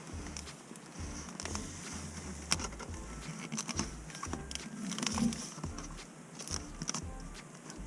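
Scattered rustling, scraping and light clicks and taps of a furnace air filter being worked into its slot by hand, a snug fit, with dull bumps throughout.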